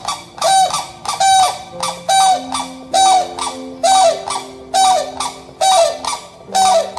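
Grey crowned crane giving a steady series of about nine honking calls, a little under a second apart, each a short tone that drops at its end.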